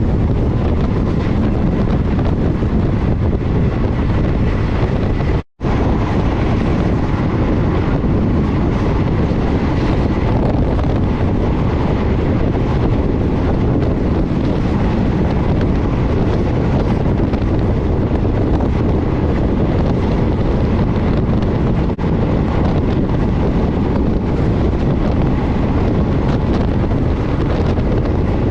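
Passenger train running at speed heard from on board: a steady rush of wheels on rail with heavy wind buffeting the microphone. The sound cuts out for an instant about five and a half seconds in.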